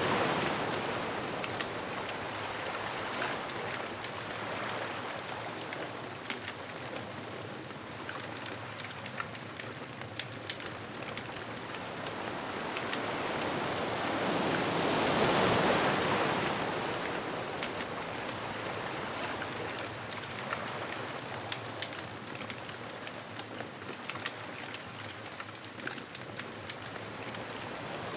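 Ocean waves breaking on a beach: a steady wash of surf, with one wave swelling to a peak about halfway through and then receding. Faint sharp crackles run through it.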